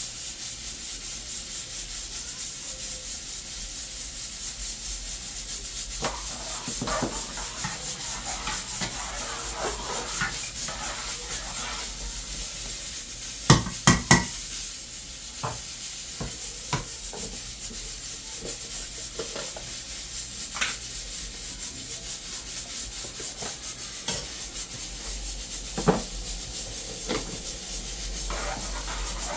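Kitchen handling sounds: scattered knocks and clinks of cooking utensils and pots over a steady hiss, with three loud knocks in quick succession about halfway through and another near the end.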